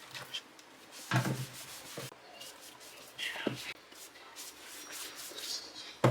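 Handling a wooden board during cleaning: a few separate short knocks and scrapes, the strongest about a second in and another about three and a half seconds in.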